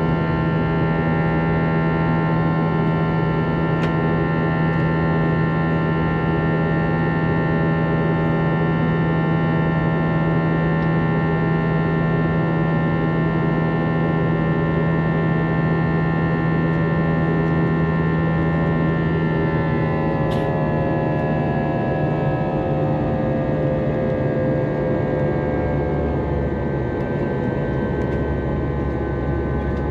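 Airbus A321's IAE V2500 turbofan engines heard from inside the cabin: a steady whine of many held tones over a low hum. About twenty seconds in, the tones slide down together as the engines spool down to lower thrust.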